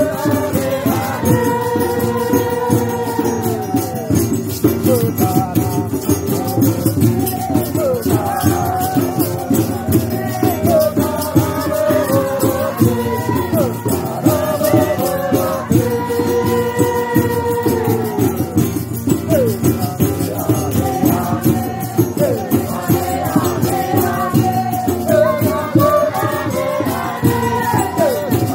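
Ceremonial folk music: a shaken rattle keeps up a fast, steady rhythm under a sung melody that repeats in phrases of about four seconds.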